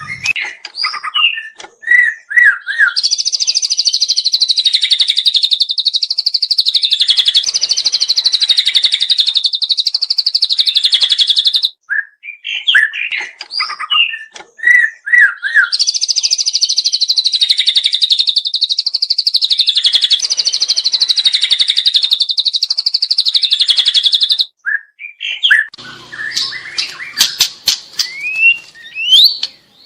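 Juvenile white-rumped shama singing loudly: a few short chirping notes, then a long, very fast trill lasting about nine seconds. The same phrase comes twice. Near the end there are scattered chirps and quick rising whistles.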